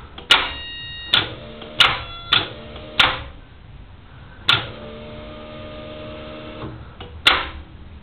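Honda Integra DC2 clicking sharply as it is tried for a start: about seven single clicks at uneven intervals, with a faint steady hum between them. The engine neither cranks nor fires.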